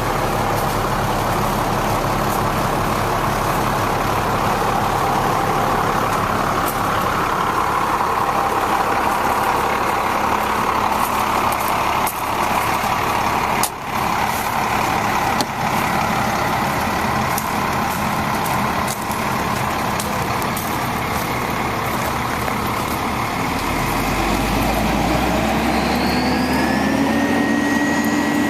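1999 International 4900 bucket truck's diesel engine running steadily. Near the end its pitch rises as it speeds up, then holds at the higher speed.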